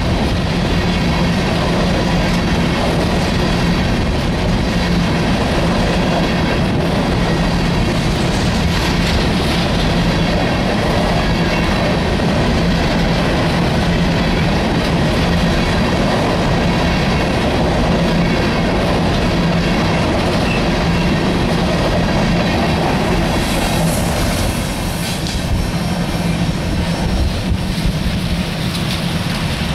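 Empty freight hopper cars rolling past: steel wheels clattering over the rail joints under a loud, steady rumble, with some faint wheel squeal. About 24 seconds in, the sound thins and gets slightly quieter.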